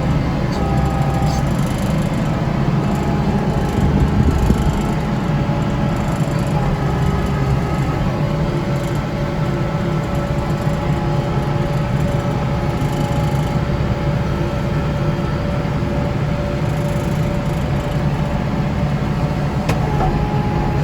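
Kubota tractor's diesel engine running steadily with its front-mounted snow blower turning, a constant low drone with faint steady whining tones above it and a brief louder surge about four seconds in.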